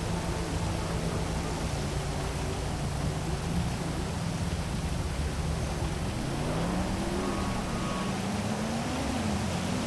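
Steady hiss of heavy rain over city traffic, with the hum of vehicle engines underneath; in the second half an engine's pitch rises and falls twice as vehicles accelerate.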